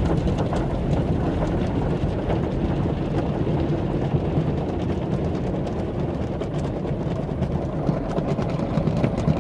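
Automatic car wash machinery running around the vehicle, heard from inside the cabin: a steady low rumble with a fine, rapid ticking over it.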